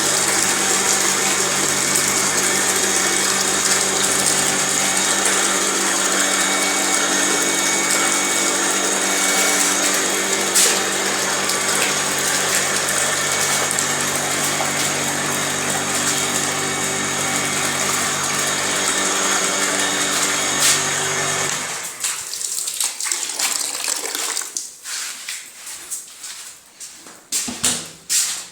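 Water running steadily with a constant hum under it, shut off abruptly about three-quarters of the way through; scattered knocks and clatter follow.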